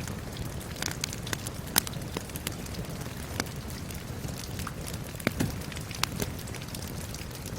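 Steady rain hiss with a wood fire crackling over it: irregular sharp pops, the loudest about two seconds in and just past five seconds.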